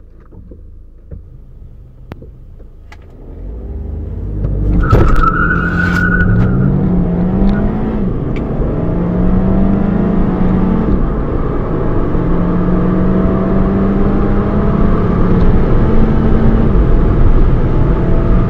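Audi A3's engine idling, then pulling hard from about four seconds in, heard from inside the cabin. The pitch climbs and falls back at each gear change, about eight, eleven and seventeen seconds in. A brief high squeal comes as it sets off.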